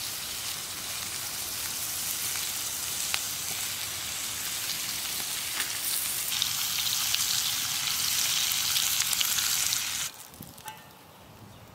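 Bacon sizzling in a pan over a campfire: a steady hiss with scattered pops, which cuts off abruptly near the end, leaving only a faint hiss.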